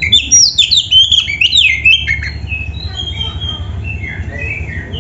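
Oriental magpie-robin singing a fast, varied song of sharp, sliding, mostly falling notes. It is loudest in a dense burst over the first two seconds, then carries on in softer, more spaced phrases, over a steady low hum.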